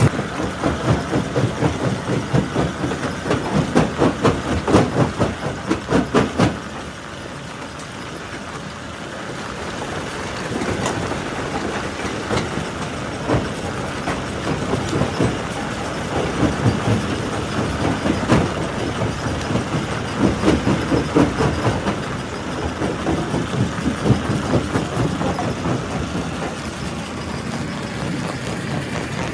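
Quarry primary rock crusher running, with a dense clatter of rocks knocking and banging as they are crushed. The knocking is heaviest over the first six seconds, drops off suddenly, then builds back up about halfway through.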